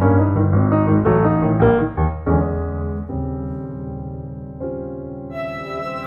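Background piano music: a run of quick notes over low bass notes, then a held chord that slowly fades, and a new, brighter chord about five seconds in.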